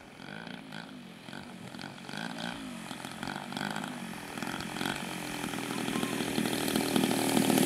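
Gasoline engine of a giant-scale Hangar 9 Extra 300 radio-controlled aerobatic plane, with its pitch rising and falling about twice a second. It grows steadily louder over the last few seconds as the plane comes nearer.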